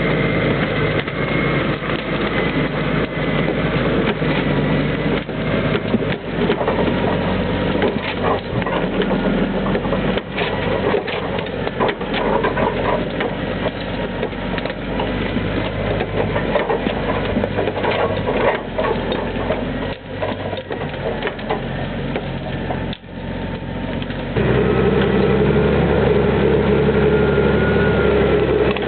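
Valtra T131 forestry tractor's diesel engine running steadily, with repeated short knocks and clatter. About 24 seconds in the engine speeds up and runs louder.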